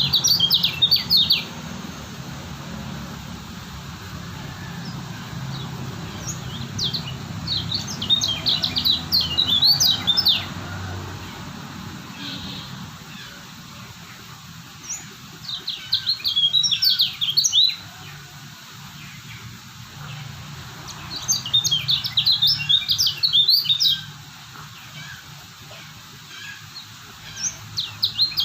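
A kecial kuning (white-eye) sings in bouts of rapid, high-pitched chirping warbles, each two to three seconds long, with pauses of a few seconds between them. There are about five bouts.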